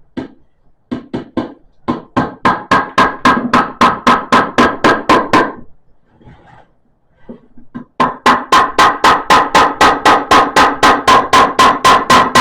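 A small ornamental hammer tapping nails into a cedar board, quick light strikes about four a second, each with a short metallic ring. The strikes come in two runs with a pause of about two seconds between them.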